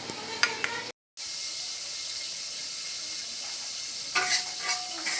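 Mushrooms and chicken feet sizzling steadily in a frying pan, with a few sharp clinks of a cooking utensil against the pan near the end. The sizzle drops out for a moment about a second in.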